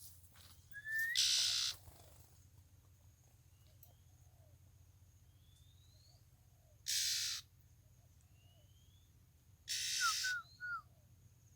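Wild birds calling in scrub: thin rising whistled notes repeat every couple of seconds. They are cut across three times, about a second, seven seconds and ten seconds in, by short harsh hissing calls. A faint steady high insect-like tone runs underneath.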